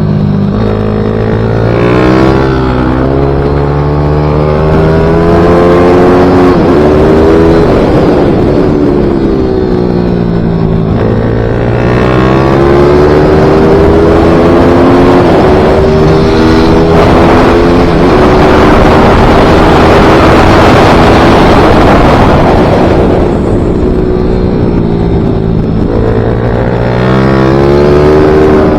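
Racing minibike engine under hard acceleration, its revs climbing and dropping again and again through the gears and corners.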